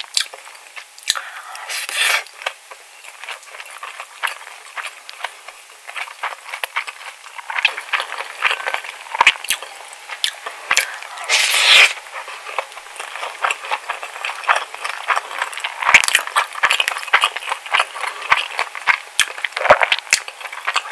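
Close-miked, wet chewing and lip smacking of a mouthful of spicy cockle bibimbap, a dense crackle of small clicks. A few louder stretches come from the plastic spoon scooping rice in the stoneware bowl.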